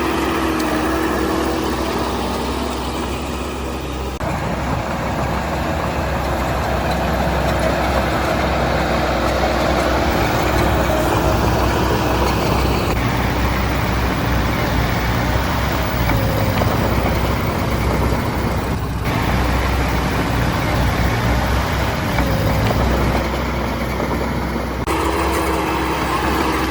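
Diesel engines of heavy earthmoving machinery running, a steady low drone, its character changing abruptly about 4, 13, 19 and 25 seconds in.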